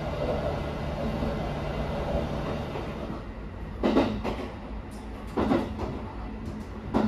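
Running noise of the Kairi sightseeing train heard from inside a carriage: a steady low rumble, then from about four seconds in three sharp clacks of the wheels over rail joints, spaced about a second and a half apart.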